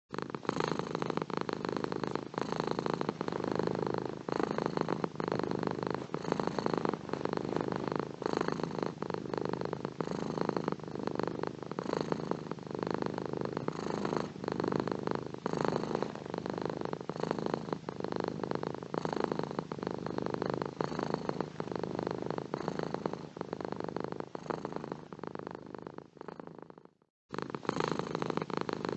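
Domestic cat purring steadily, a continuous low rumble. It fades and drops out for a moment near the end, then starts again.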